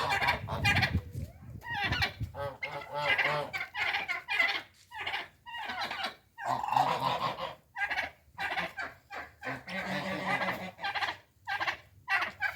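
Domestic poultry, geese or turkeys, calling in a rapid run of short repeated calls.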